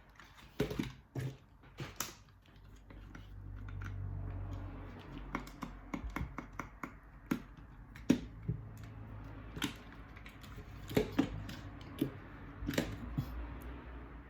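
Irregular sharp clicks and taps of small plastic drone parts and tools being handled during a repair of an SG907 drone.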